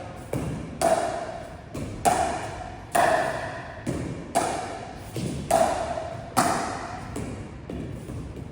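Pickleball rally: a paddle striking a plastic pickleball again and again, sharp hollow pops about one to two a second, each with a short ring after it.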